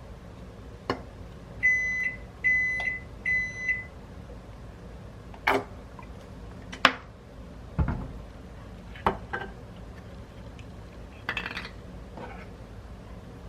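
Microwave oven beeping three times as it finishes, followed by a few sharp clicks and knocks of the door and dishes being handled.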